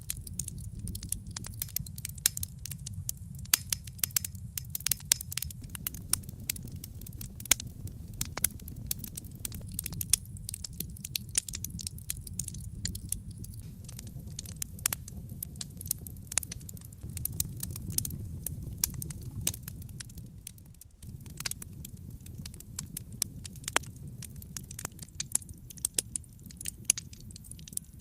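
Wood fire crackling in a fireplace: many irregular sharp pops and snaps over a low, steady rumble of burning.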